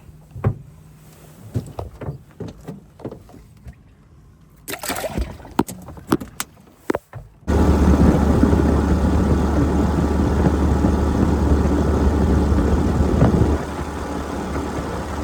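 Light knocks and clicks of gear being handled in a fishing boat, then a boat's motor suddenly running loud and steady with a strong low hum, easing slightly near the end.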